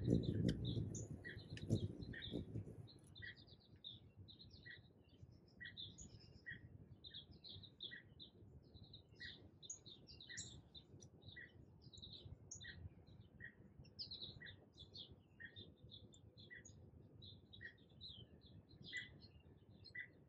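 Small birds chirping in the background, short high notes repeating about once a second. A low rumble is heard in the first two or three seconds.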